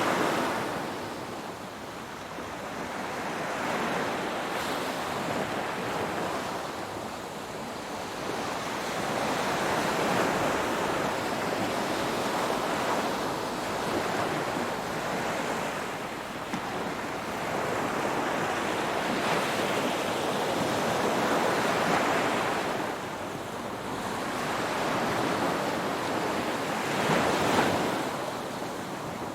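Ocean waves breaking and washing on the shore, a continuous surf hiss that swells and falls back every few seconds.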